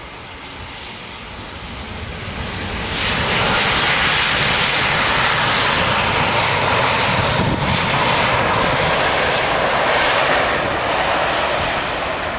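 Jet airliner on landing approach passing close by, its engine noise growing louder over the first three seconds and then holding, easing slightly near the end.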